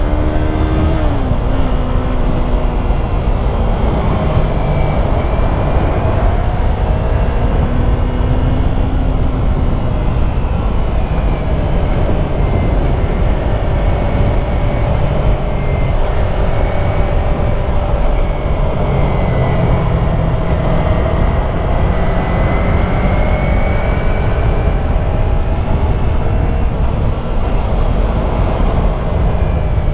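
Yamaha YZF-R3's 321 cc parallel-twin engine running under way, its revs rising and falling with a sharp drop about a second in, under heavy wind noise on the microphone.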